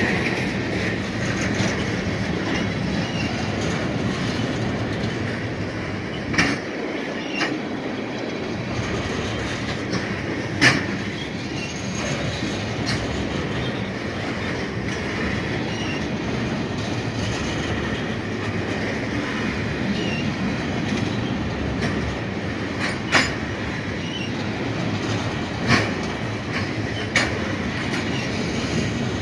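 Freight train of loaded tank cars rolling past: a steady rumble of steel wheels on rail, broken by a handful of sharp clacks as wheels cross rail joints, with a faint high wheel squeal.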